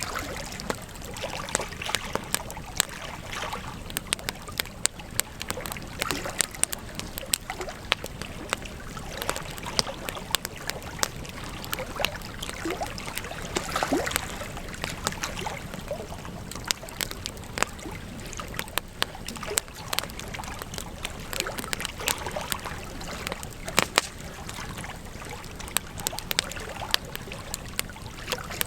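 Wood fire crackling: irregular sharp pops and snaps over a steady low hiss, with a brief whistle about halfway through.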